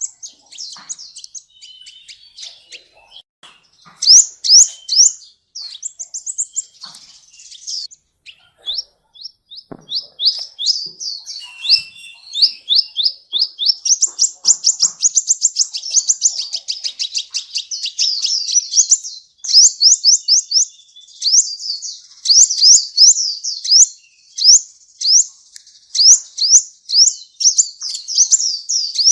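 Sunbird singing: rapid, high-pitched chattering runs of quick down-slurred notes, broken and scattered at first, then a near-continuous fast trill from about halfway through.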